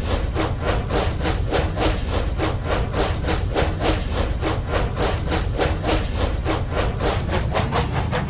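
Steady rhythmic train chugging, about four to five beats a second over a low rumble, like a steam locomotive's chuff.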